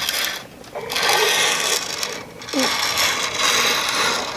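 Handling noise of plastic toy pieces: scraping and rattling in about three stretches, with short pauses between them.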